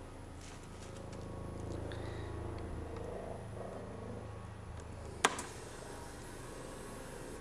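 Harley-Davidson Fat Boy Low's Twin Cam 103 V-twin idling through Rinehart crossback exhaust, swelling a little about a second in and then settling back. A single sharp click about five seconds in.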